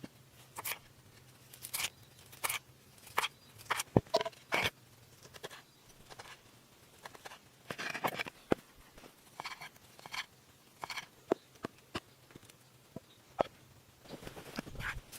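A series of short, sharp clicks and knocks at irregular intervals, one to three a second, with the loudest knock about four seconds in.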